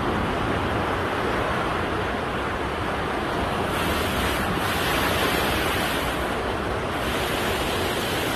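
A loud, steady rush of water.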